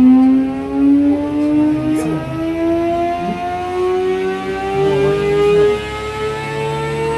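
Sport motorcycle engine pulling at wide-open throttle on a chassis dynamometer during a power run, its pitch climbing steadily through the revs in one long pull.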